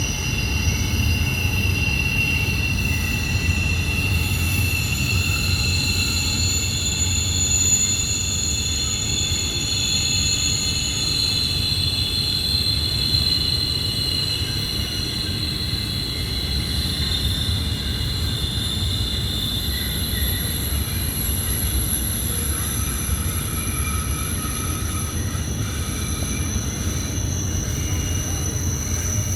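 Freight train cars rolling through a sharp curve, their wheels squealing in several high, drawn-out tones over a steady low rumble.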